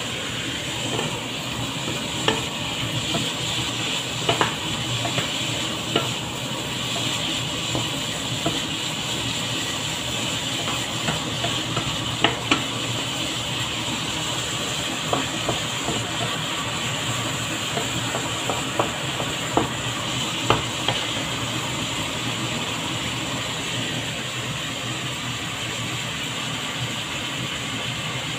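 Diced ham sizzling in a non-stick wok, with a wooden spatula stirring it and knocking against the pan in scattered sharp clicks, most of them in the middle stretch.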